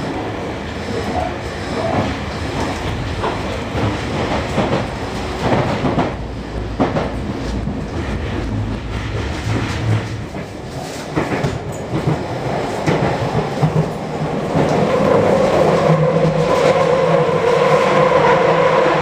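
Interior running noise of an electric commuter train in motion: a steady rumble from the wheels and rails with irregular clacks. About three-quarters of the way through it grows louder and a steady whine joins in.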